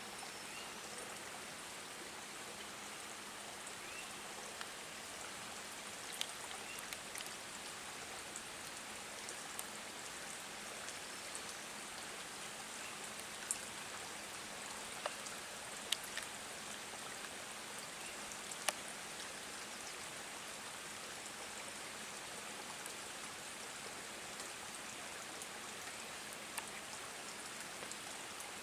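Light rain falling, a steady hiss of drops on water and foliage, with scattered single drops ticking sharply close by.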